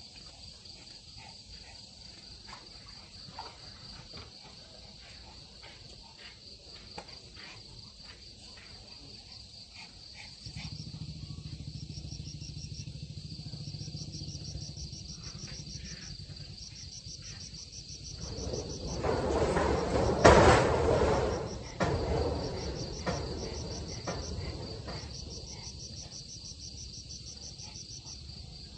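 Insects, likely crickets, chirping steadily in high pulsed trills. A low hum sets in about a third of the way through. About two-thirds in, a loud rushing noise swells and fades over a few seconds.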